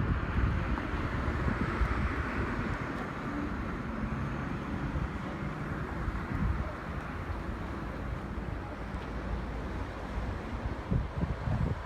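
A car driving slowly: a steady low rumble of engine and road noise with wind buffeting the microphone, a little louder in the first few seconds.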